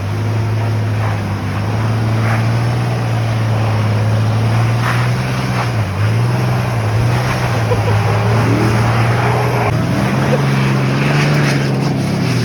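Car engine running under way, its pitch shifting a couple of times as the revs change.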